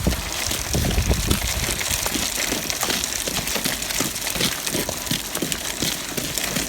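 Strong cold wind buffeting the microphone: a steady rushing noise with irregular low rumbling gusts.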